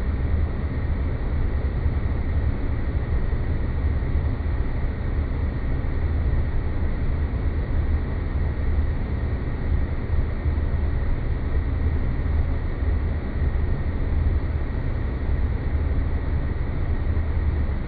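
Synthetic space-ambience drone: a steady deep rumbling noise with a faint high steady tone, unchanging throughout.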